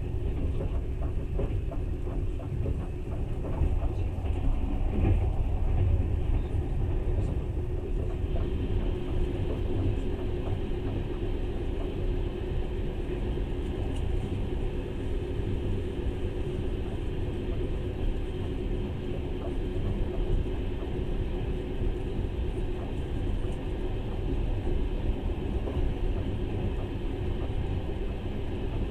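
Steady low rumble of a moving passenger train, heard from inside the carriage. In the second half it is joined by the rush of a freight train of boxcars passing close alongside on the next track.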